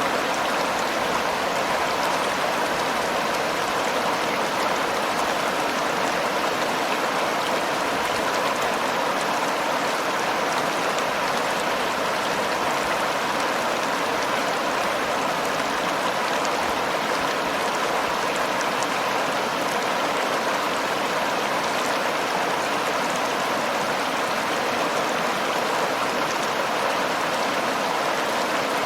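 The Seomjin River's water flowing in a steady, unbroken rush.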